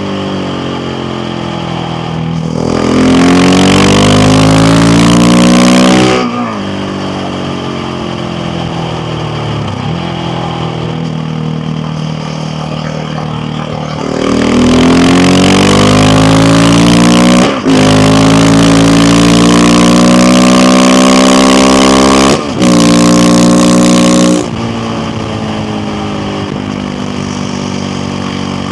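KTM 690 Duke R's single-cylinder engine under way, accelerating hard twice: the note rises loudly a few seconds in, then again from about halfway, broken by two quick upshifts before the throttle closes. Between the pulls it runs steadily at part throttle.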